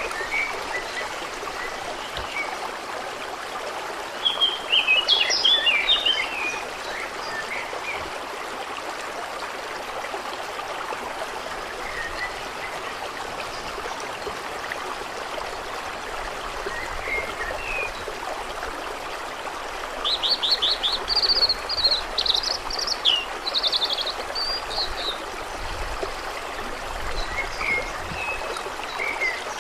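Steady trickling, flowing water with songbirds calling over it: a short burst of song about five seconds in, a longer trilling phrase about twenty seconds in, and a few scattered chirps between.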